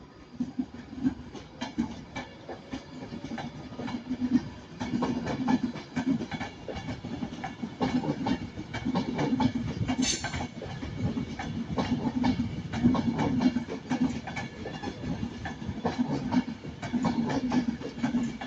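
A train moving through the station, its wheels clattering over rail joints and points, with a low running hum that swells and fades. There is a brief high hiss about ten seconds in.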